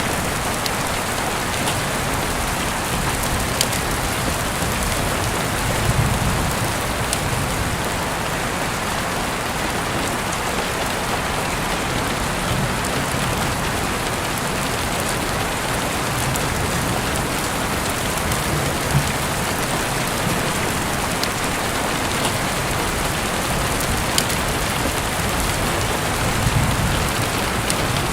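Heavy rain falling steadily, with scattered sharp drop ticks. A low rumble swells briefly twice, about six seconds in and near the end.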